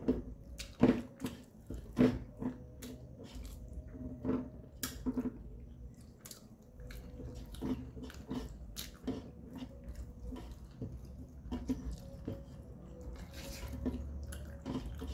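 Close-miked chewing of mouthfuls of rice and dried-meat curry eaten by hand, full of irregular wet mouth clicks. A few louder clicks come about one and two seconds in.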